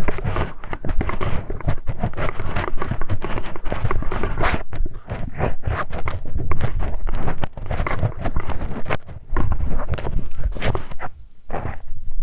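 Close-miked ASMR ear-cleaning sounds: a tool scraping, rubbing and clicking against a binaural microphone's ear in a dense, irregular run of taps and scratches, with a couple of short lulls near the end.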